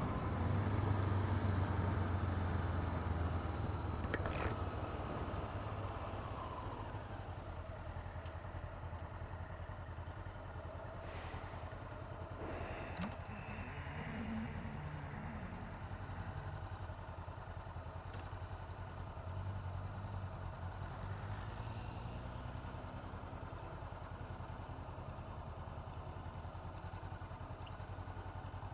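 2017 Honda CB500F's parallel-twin engine running under heavy wind noise at the helmet microphone, loud at first and dying down over the first several seconds as the bike slows, then running quietly at low speed.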